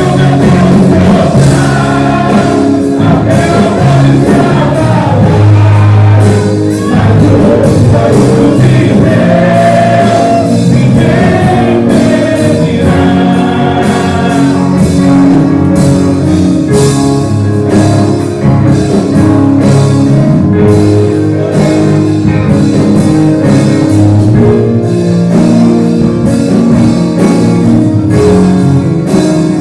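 Gospel worship song: singing voices with instrumental accompaniment, steady and loud throughout.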